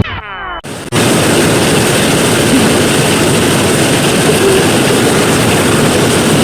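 Heavy rain pouring down in a steady, even hiss. It starts about a second in, right after a short falling pitch glide at the start that cuts off abruptly.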